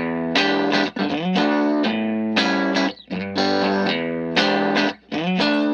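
Background music: a distorted electric guitar playing long held notes, sliding into several of them, with short breaks between phrases.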